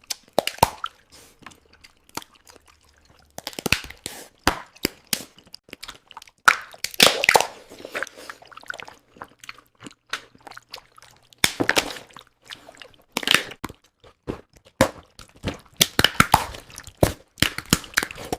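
Close-up crunching and chewing of king crab legs and lobster, the shells cracking, in irregular clusters of sharp crunches with short quieter gaps between.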